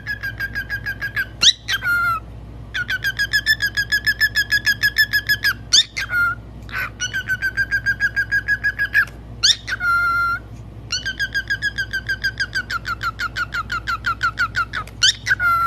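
A pet parrot calling in fast, evenly repeated notes, about six a second, in four runs of a few seconds each, every run ending on a short whistle.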